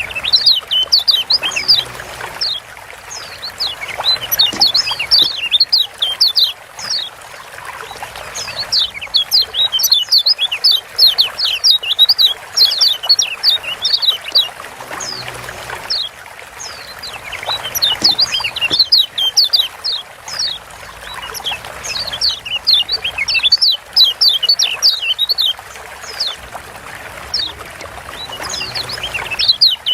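Kecial kuning Lombok (a white-eye) giving rapid runs of short, high 'ciak' chirps, each run lasting a few seconds with brief pauses between, over a steady trickling-water hiss.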